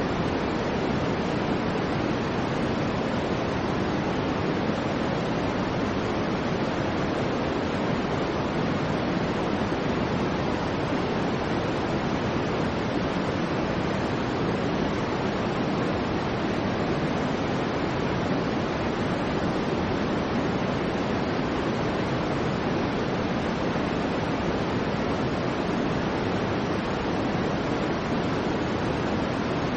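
Soft white noise for sleep: a steady, unchanging hiss, deeper and fuller in the low range than in the high.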